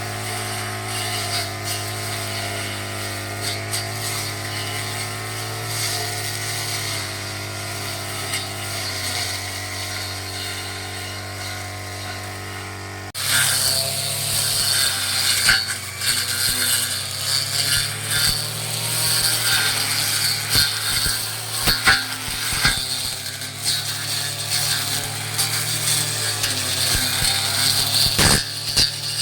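Petrol brush cutter's small engine running steadily. About halfway it turns suddenly louder and harsher, with scattered clicks.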